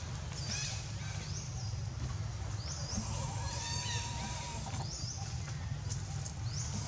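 Birds chirping, short high calls repeating about once a second with a warbling note and a few falling calls partway through, over a steady low rumble.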